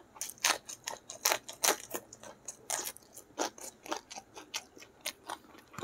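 Close-miked chewing of a mouthful of food, a fast irregular run of short, crisp mouth clicks, loudest in the first two seconds.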